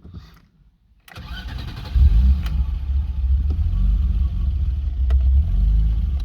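BMW E30 320i's straight-six engine started: the starter cranks about a second in, the engine catches about two seconds in and settles into a slightly uneven idle, a rougher run caused by its sharper aftermarket camshafts.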